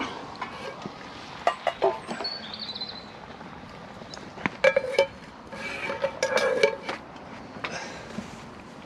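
Metal camp cookware and utensils clinking and knocking, with a few sharp clinks that ring briefly, over a steady background hiss.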